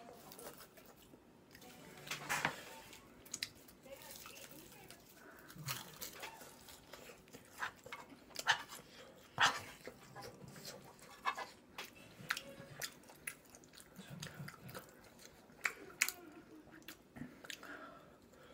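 Close-up chewing and mouth smacking of someone eating kimchi fried rice, with irregular sharp clicks and scrapes of a metal spoon against a frying pan.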